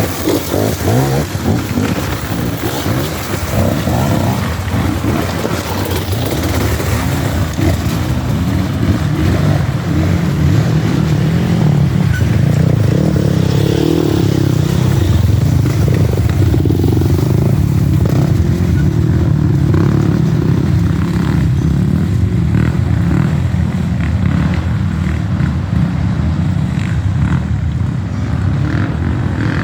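Dirt bike engines revving and labouring as the bikes work through a slippery creek section. The engines swell louder partway in, hold, then ease off near the end.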